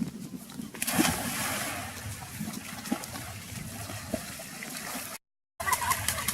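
Water splashing, with a sudden rush about a second in that settles into steady trickling and sloshing. It cuts out completely for a moment near the end.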